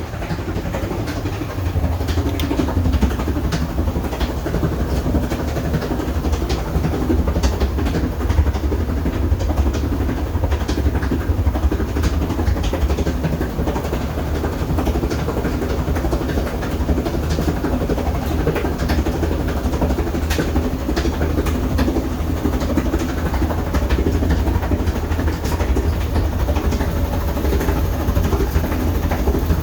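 Washing machine running hard, most likely in its spin, with a loud steady rumble and many rattles and knocks. It builds up over the first couple of seconds, then holds. The machine is dying.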